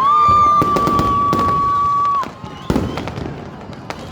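Firecrackers popping in scattered sharp cracks, with a loud held high tone for about the first two seconds that rises briefly at its start and then stops abruptly.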